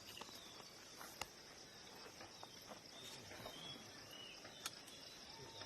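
Faint outdoor ambience: steady, high-pitched insect chirring, broken by a few sharp clicks, the loudest about a second in and again near the end.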